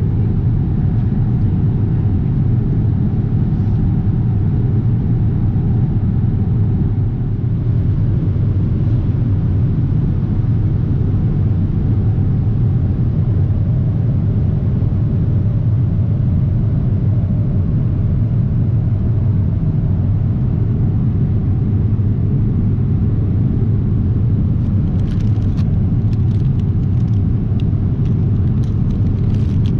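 Steady, low-pitched cabin noise of a Boeing 777-300ER in flight, the hum of its engines and the rush of air heard from an economy seat. A few faint clicks come near the end.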